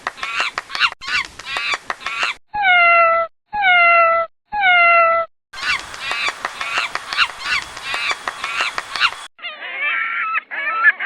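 A run of animal recordings: rapid high-pitched calls, then three long cat meows, then more rapid high-pitched calls, and geese honking near the end.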